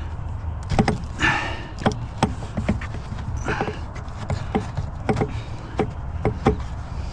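Pickup truck engine idling with a steady low rumble while scrap items are handled, clanking and knocking irregularly, with a short scraping or rustling noise about a second in and again a couple of seconds later.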